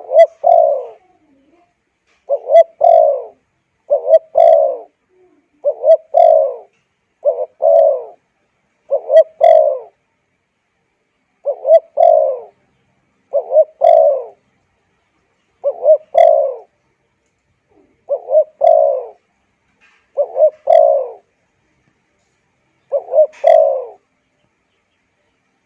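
Spotted dove cooing: a short phrase of low coos repeated about every one and a half to two seconds, around thirteen times, with silent gaps between the phrases.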